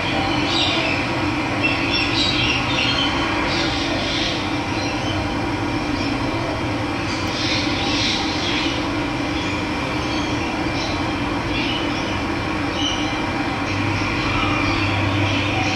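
Steady rushing of running water, with birds chirping now and then over it.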